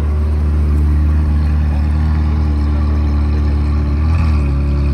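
Ferrari 360's V8 engine running at a low, steady idle as the car creeps forward, with a brief wobble in pitch about four seconds in.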